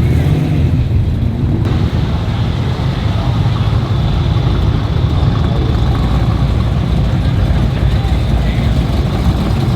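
Car engine running steadily with a deep low rumble, with voices murmuring in the background.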